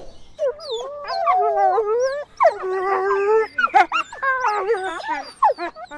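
Animal calls: long, wavering, howl-like cries, several overlapping, one after another.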